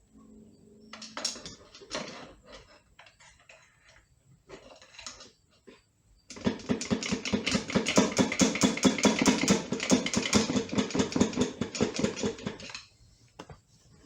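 Scattered metal clicks and scrapes, then a loud rapid hammering rattle of about ten blows a second that runs for roughly six seconds and stops suddenly. It is the sound of a tool working at a stuck part of a C6 automatic transmission.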